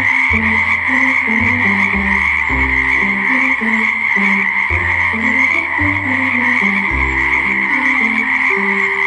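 A dense chorus of frogs calling, an unbroken high-pitched trilling without pauses. Background music with a simple low melody plays under it.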